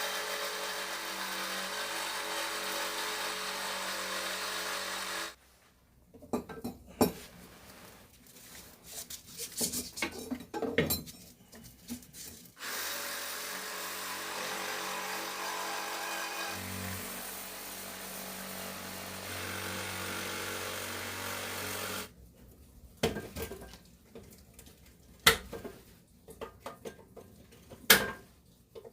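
A handheld power tool runs steadily for about five seconds, stops, and runs again for about nine seconds. Scattered knocks and clatter fill the gap between the runs, and a few sharp knocks come near the end.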